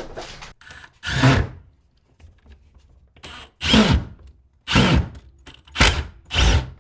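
Cordless drill/driver running brass screws in, in about five short trigger bursts, the motor spinning up and winding down each time.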